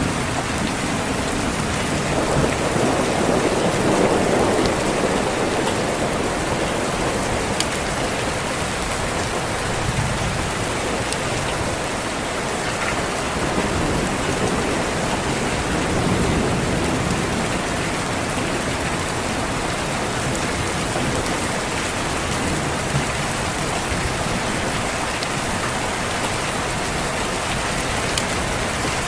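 Steady heavy rain with low rolls of thunder, swelling a few seconds in and again about halfway through.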